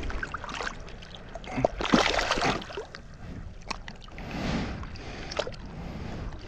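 Shallow water splashing and sloshing in irregular surges, with a few sharp clicks, the loudest surge about two seconds in.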